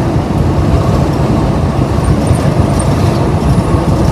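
Steady road and wind noise inside a car travelling at highway speed: a loud, rumbling hiss with no engine note standing out.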